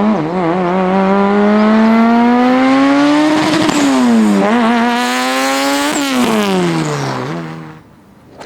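Heavily tuned Mitsubishi Lancer Evolution X's turbocharged four-cylinder engine pulling hard. Its pitch climbs for about three seconds, dips, climbs again, then falls away and stops about a second before the end.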